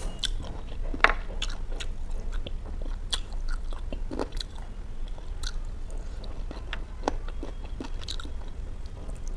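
A person chewing and biting pieces of butter chicken, with irregular sharp mouth smacks and clicks; the loudest comes about a second in.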